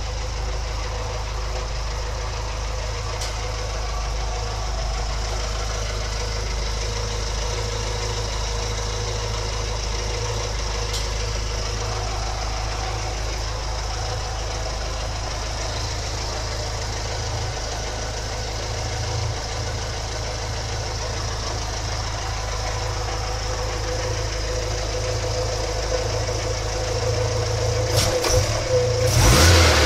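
1970 Saab 96's Ford V4 engine, fitted with a new Jetex exhaust, idling steadily, then revved briefly near the end.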